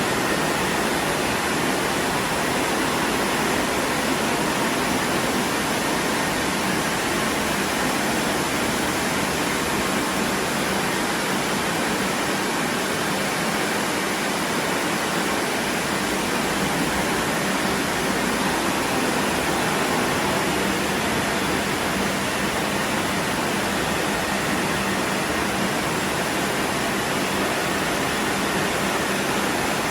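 WashTec SoftCare Pro Classic rollover car wash running, with a steady, even rushing noise that does not change.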